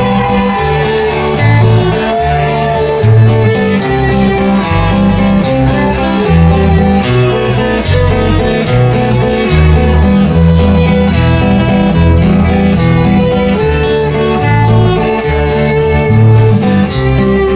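Rock band playing live: an instrumental passage with a bass line, steady drums and cymbals, guitar, and a violin carrying the melody.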